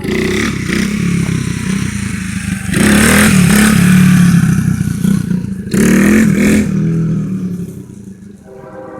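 Coolster 125 cc dirt bike's small single-cylinder four-stroke engine running, revved up loudly twice, first about three seconds in for a couple of seconds and then briefly again, before it drops back and fades near the end.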